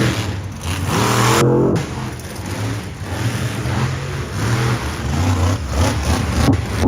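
Monster truck engine revving hard in surges, its pitch rising about a second in, with a sharp bang near the end.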